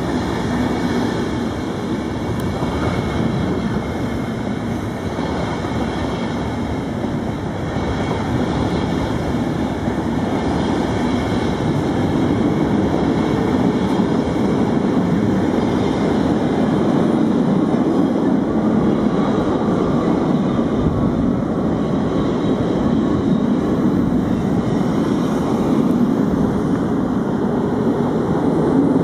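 Deutsche Bahn Intercity coaches rolling past on the rails: a steady rumble of wheels on track that grows a little louder in the second half.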